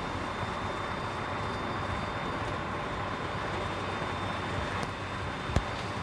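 Container truck on the move: a steady rumble of engine and road noise, with one sharp click about five and a half seconds in.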